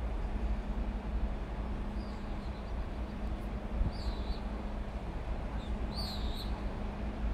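A bird chirping in short calls that glide in pitch, a few times about two, four and six seconds in, over a steady low rumble and a faint steady hum.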